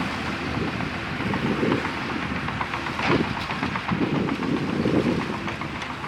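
Bulldozer working: its diesel engine running under load with repeated clanks and knocks from the steel tracks and blade.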